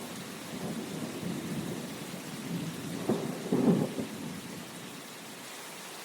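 Steady rain hissing, under a low rolling rumble of thunder that swells to its loudest a little past halfway and then dies away.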